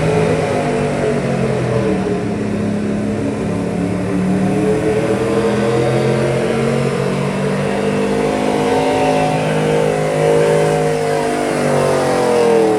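Street stock gas pulling truck's engine running at raised revs while staged for a pull. The pitch climbs slowly over several seconds and falls away near the end.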